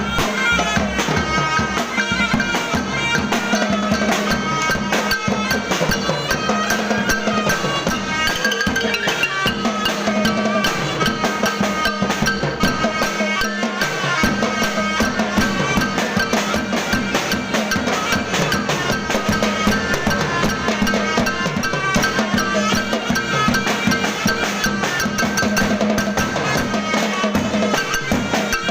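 Traditional Thai processional gong-and-drum ensemble playing: dense fast percussion of drums, gongs and cymbals under a melody and a steady low drone.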